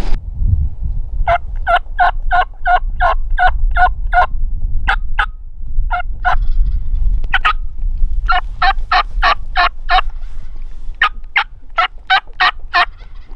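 Turkey yelping: three runs of short, evenly spaced yelps, about three a second, with pauses between the runs.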